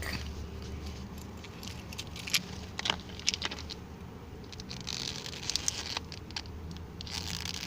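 Plastic shrink wrap being picked at and peeled off a DVD case: scattered crinkles and small clicks.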